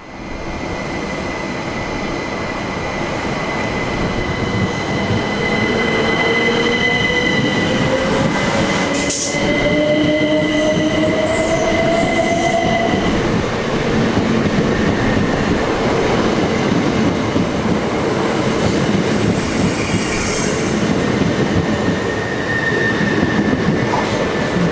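Class 377 Electrostar electric multiple unit pulling away from the platform, its traction motors giving a rising whine as it gathers speed over building wheel-on-rail noise.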